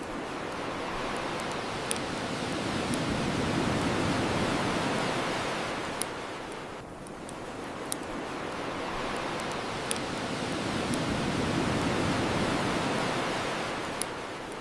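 Ocean waves washing onto a shore, swelling and falling back twice, with a wood fire crackling: a sharp pop every couple of seconds.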